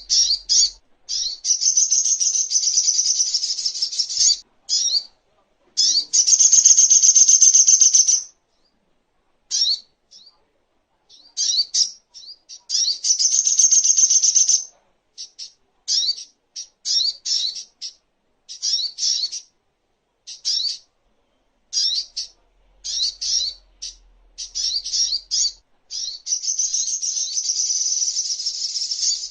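Little spiderhunter (sogok ontong) singing: quick, high-pitched chirps in short groups, broken by several fast, buzzy trills lasting two to three seconds each.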